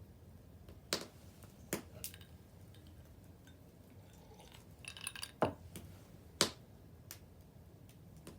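Wood fire crackling, with a few sharp separate pops and a short run of crackles about five seconds in; the loudest pops come near the middle.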